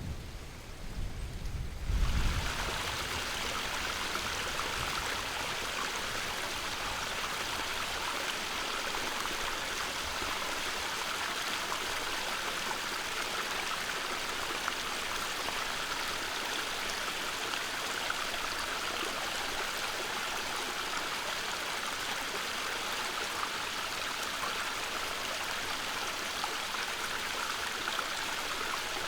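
Water rushing steadily at a small stream or watering spot running full with rain and snowmelt. A low rumble in the first couple of seconds gives way to an even, unbroken flow.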